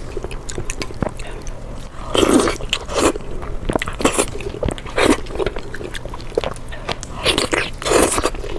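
Close-miked eating: a person taking bites and chewing, in loud irregular bursts about a second apart, over a faint steady low hum.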